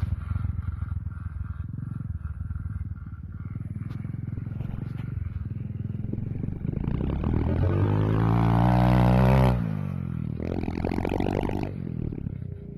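Stomp 110cc pit bike's single-cylinder four-stroke engine running. Its pitch rises as it revs up from about seven seconds in, then drops off suddenly at about nine and a half seconds, with a shorter burst of engine again a second later.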